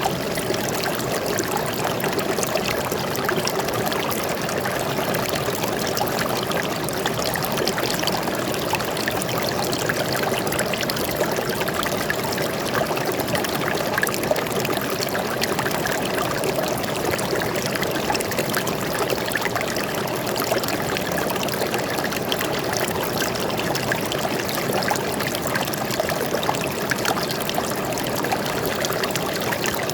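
Forest stream flowing steadily, a continuous rush of water with fine trickling and splashing over it.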